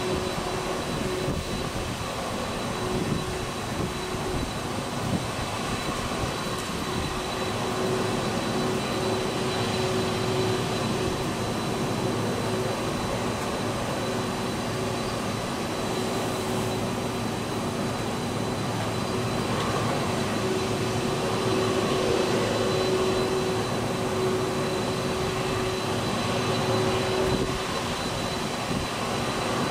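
Airliner engines running steadily: a constant rumbling hum with a thin, unchanging high whine.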